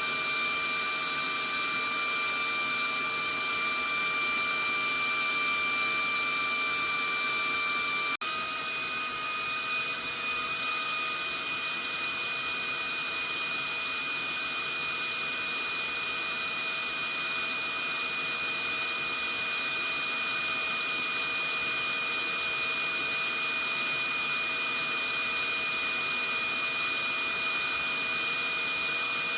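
Vacuum cleaner motor running steadily, a rushing hiss with a high whine. About eight seconds in it breaks off for an instant and comes back slightly louder, its high whine a little stronger.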